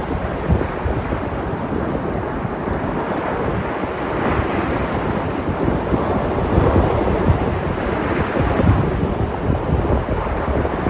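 Sea surf: waves breaking and washing in continuously, swelling louder about four seconds in and easing again near nine seconds. Wind buffets the microphone with a low rumble throughout.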